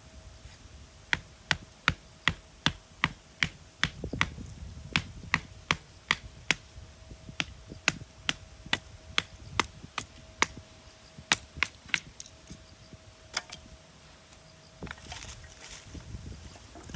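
Wood being chopped: a long run of evenly spaced sharp chopping knocks, about two to three a second, stopping about three seconds before the end.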